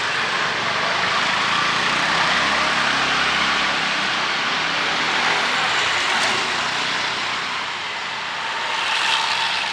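Steady hiss of traffic on a wet street, with a vehicle running close by in the first half.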